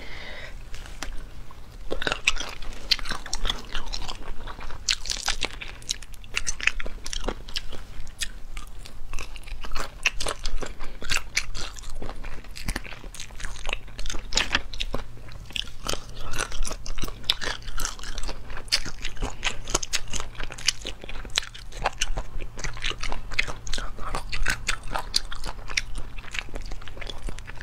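Close-miked chewing and biting of braised chicken feet, a dense run of quick, irregular clicks and crackles as the skin and cartilage are chewed, with a steady low hum underneath.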